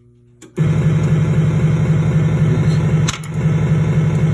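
Gottlieb Black Hole pinball sound board playing its sound 1, the game over sound: a loud, buzzing low synthesized drone that starts abruptly after a small click about half a second in, with a brief dip about three seconds in.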